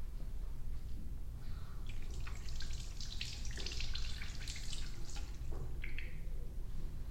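Water trickling and dripping in crackly bursts for about three seconds, as in a hair-washing rinse, over a steady low hum.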